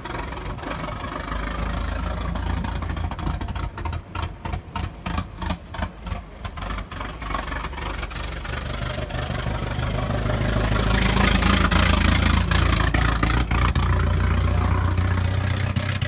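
An early brass-era open car's engine running as the car drives a lap. It has a low rumble with an uneven pulsing beat in the first half, then grows louder and fuller from about ten seconds in as the car comes close.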